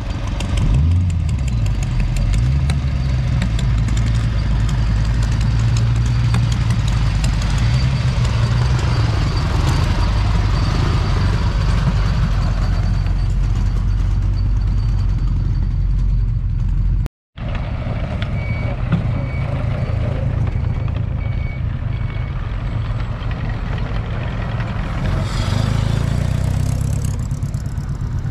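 Classic car engines running at low speed as cars roll out past the camera, a continuous low rumble. A thin steady beep sounds over it for much of the time, and the sound drops out for a split second about two-thirds of the way through.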